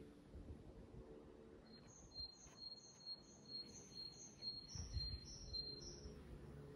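A small bird's high-pitched call, a fast run of about ten short two-pitched notes at roughly two and a half a second, starting about two seconds in and stopping about six seconds in. Faint low thumps and rustle underneath, strongest about five seconds in.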